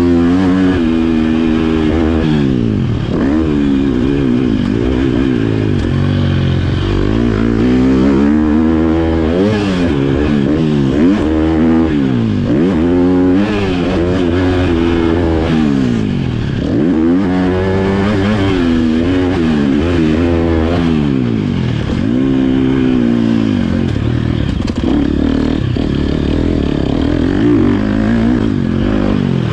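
Motocross bike engine revving hard and easing off again and again, its pitch climbing and dropping every one to two seconds as it accelerates, shifts and slows around a dirt track.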